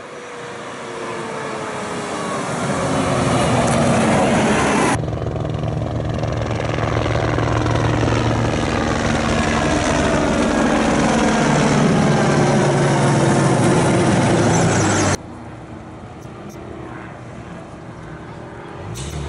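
Rally race trucks passing at speed with loud engine noise whose pitch falls as they go by, in several stretches that begin and end abruptly: one builds over the first few seconds, another runs for about ten seconds, and a quieter engine sound follows.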